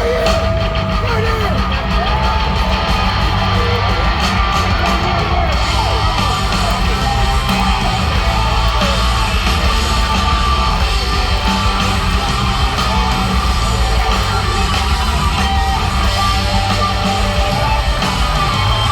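A live rock band playing loudly, with electric guitar over a heavy bass and drum beat.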